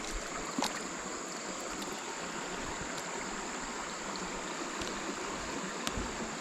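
Creek water running steadily, an even rushing hiss, with a couple of faint clicks about half a second in and near the end.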